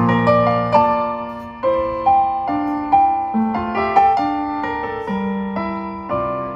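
Solo piano playing a slow melody over chords, each note struck and then fading.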